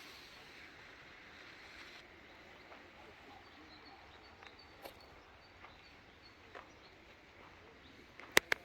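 Quiet outdoor ambience with a few faint scattered ticks, then two sharp clicks in quick succession near the end.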